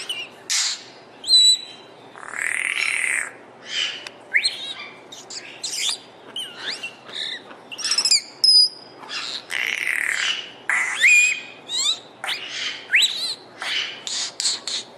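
Bird calling close up: a busy, nearly unbroken run of varied whistles, rising and falling chirps and harsh squawky notes.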